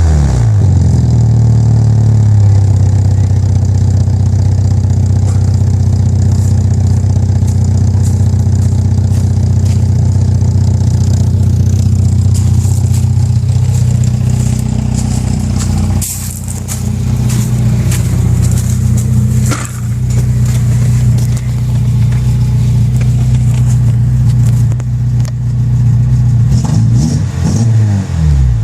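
1994 Volkswagen Golf GTI's engine and exhaust running loud at a steady, fairly high engine speed. The pitch falls and climbs again in a quick dip at the very start and again near the end, and the note eases briefly past the middle.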